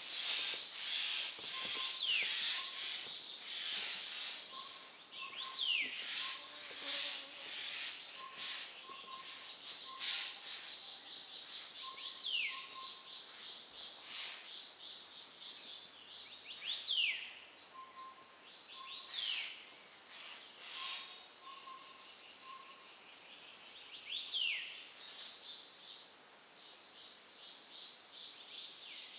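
Forest birdsong: a bird repeats a short, sharply falling whistle every few seconds, over strings of soft short notes and surges of hiss.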